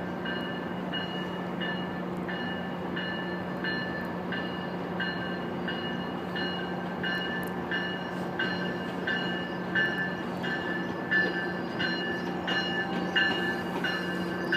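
An arriving Metrolink commuter train: its bell rings evenly, about three strikes every two seconds, over the steady hum of the train's diesel engine.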